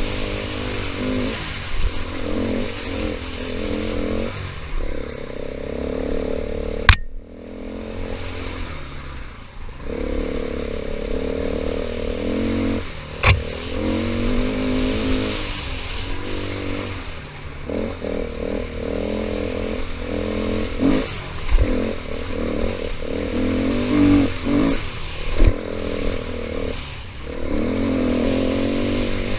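KTM 500 EXC's single-cylinder four-stroke engine running under changing throttle on a rough trail, its pitch rising and falling as the rider rolls on and off, easing off briefly about seven seconds in. A few sharp knocks cut through, the loudest two about seven and thirteen seconds in.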